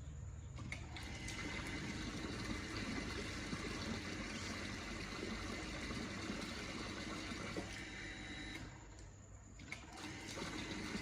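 Restored automatic pressure water pump running, with water rushing and splashing as a steady noise that drops away briefly twice.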